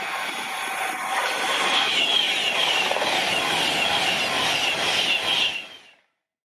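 Train passing at speed on the main line: a loud, steady rush of wheel and rail noise that builds over the first two seconds, then cuts off abruptly near the end.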